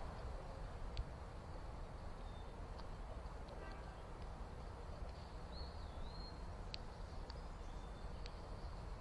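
Wild birds calling faintly in a backyard, including a short whistled call about halfway through and a few brief chirps, over a steady low background rumble.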